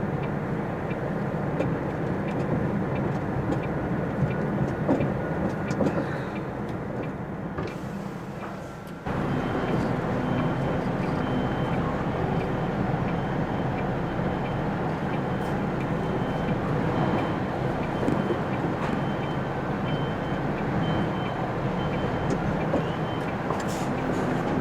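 Articulated lorry's diesel engine running steadily while manoeuvring, and partway through a high reversing alarm starts beeping at an even pace, about once a second.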